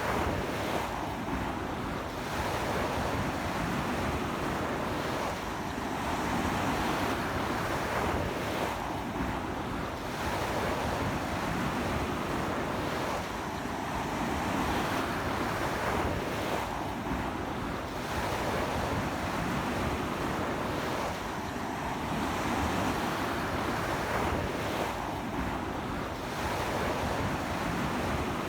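Ocean waves breaking and washing up a beach in strong wind, swelling and easing every few seconds, with wind buffeting the microphone.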